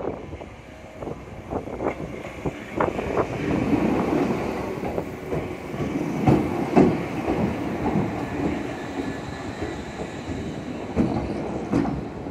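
Ohmi Railway electric train, a former Seibu car, rolling along the track with the steady rumble of the train and irregular knocks of the wheels over rail joints; the sound grows louder about four seconds in.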